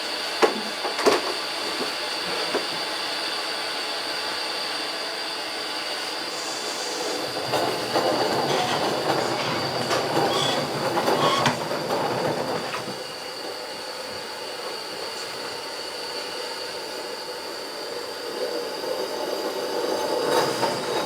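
Live steam locomotive 4633 working cars in a switching move: two sharp knocks about half a second and a second in, then a louder stretch of metallic running noise from about 7 to 13 seconds, over a steady high hiss.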